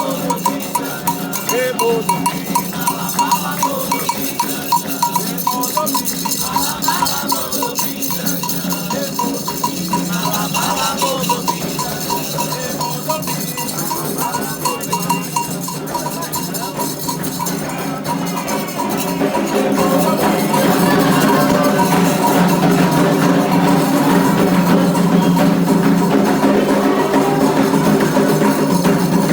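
Candomblé ritual percussion: a metal bell like an agogô, drums and a shaker keeping a steady rhythm. It grows louder about two-thirds of the way through.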